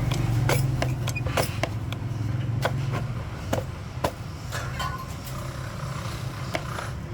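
A steady low machine hum, loudest in the first few seconds, with scattered sharp knocks over it, typical of metalworking machinery running in a workshop.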